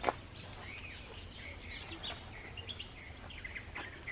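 Birds chirping in short, quick rising and falling calls over a faint outdoor background hush, with one sharp click right at the start.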